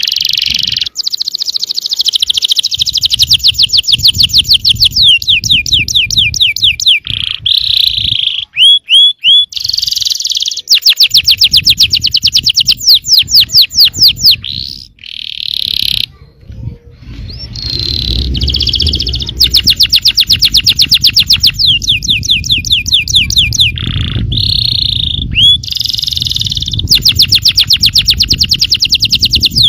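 Yellow canary singing loud, vigorous song: long rolling trills of rapidly repeated notes alternating with short whistled and slurred phrases, with brief pauses between. A low rumble sits underneath for much of the time.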